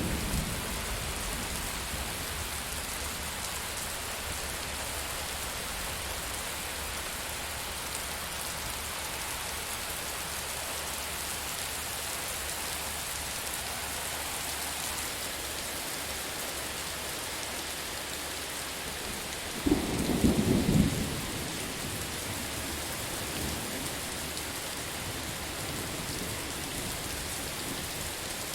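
Steady rain falling, with the tail of a thunder rumble fading at the start and one loud, low thunderclap rumbling about twenty seconds in.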